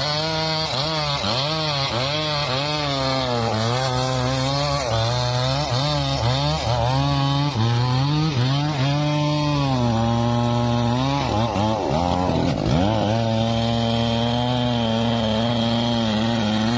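Chainsaw cutting through wood. The engine pitch dips and recovers about once a second as the chain bites under load, then holds steadier at high revs for the second half, with one brief dip.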